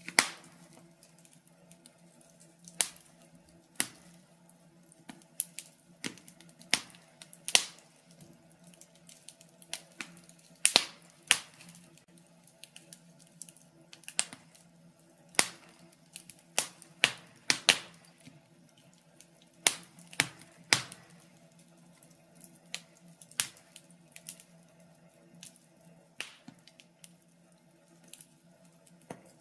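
Wood fire crackling in a fireplace: irregular sharp pops and snaps, about one or two a second and uneven in strength, over a faint steady low hum.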